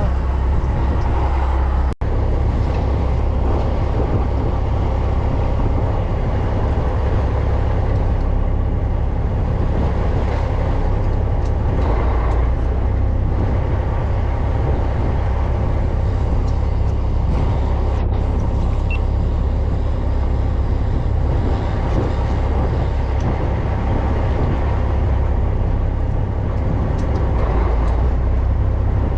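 Fishing boat's engine running steadily with a deep low rumble, under a constant rush of noise. There is a brief break in the sound about two seconds in.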